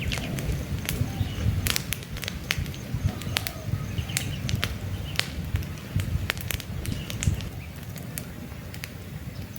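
Wood campfire burning, with irregular sharp crackles and pops from the logs over the low rush of the flames. Birds chirp faintly in the background.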